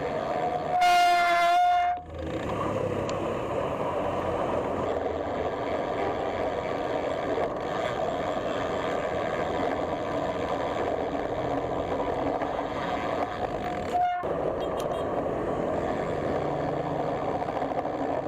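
Steady road traffic noise, with a vehicle horn honking once for about a second near the start and giving a short toot about fourteen seconds in.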